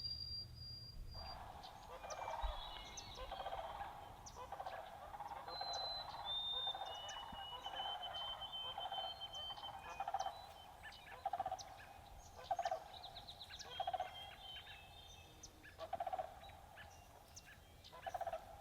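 Morning birdsong, faint: long, thin, high whistled notes, and lower rapid rattling calls that start about a second in and repeat many times.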